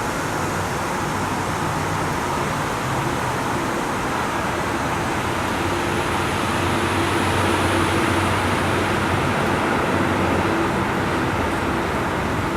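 Steady rushing noise of a heavy thunderstorm downpour, with a steady low hum underneath.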